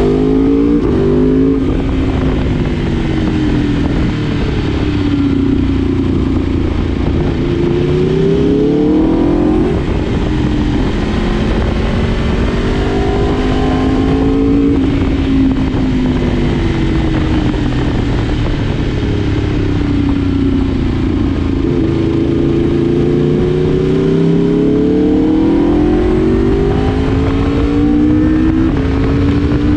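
Sport motorcycle's four-cylinder engine on the move, its pitch climbing under acceleration and falling back several times over a steady rush of noise.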